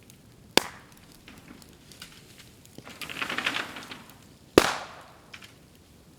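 Bamboo burning in a bonfire: a sharp crack about half a second in, a spell of crackling and hissing about halfway through, then a loud bang with a short fading tail as a bamboo section bursts.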